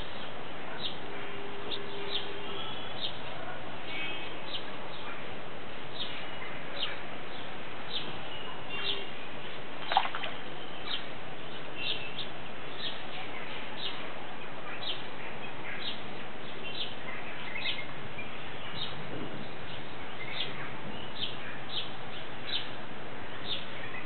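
Birds chirping, short high calls coming about once a second, over a steady background hiss, with one sharp click near the middle.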